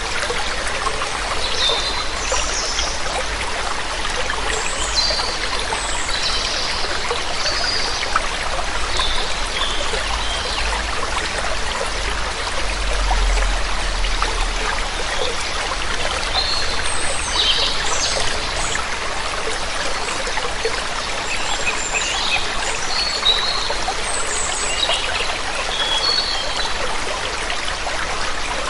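Waterfall water splashing steadily, with small songbirds giving short chirps again and again above it.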